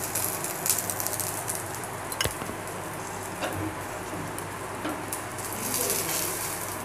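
Oil sizzling under a cheese-stuffed paratha frying on a hot tawa, with a few sharp clicks of a metal spoon and spatula against the pan.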